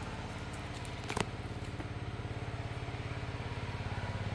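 A steady, evenly pulsing low hum like an idling engine, with one sharp click about a second in.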